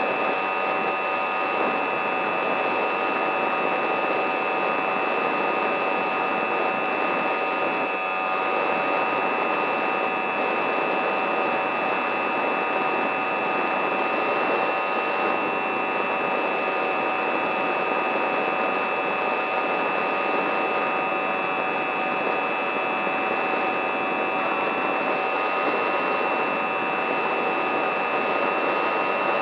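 Steady whine of a small electric RC aircraft motor and propeller at constant throttle, several fixed tones over a rushing noise, the pitch dipping slightly now and then.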